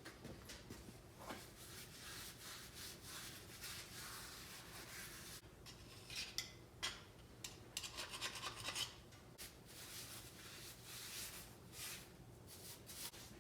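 Faint, irregular hand scraping and rubbing strokes on a lathe part, with a busier run of strokes about halfway through.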